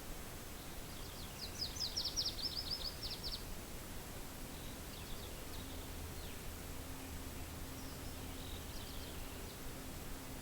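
Songbird singing a quick trill of high, evenly spaced notes about a second in, lasting about two seconds, then two short bits of song later, over a steady soft hiss of outdoor wind.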